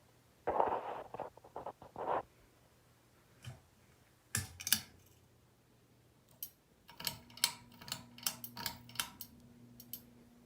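Lasko American Classic ceiling fan's motor humming steadily. Sharp clicks and ticks come through, with a noisy rustle near the start. Over the second half a higher hum joins in, with a run of clicks about two to three a second.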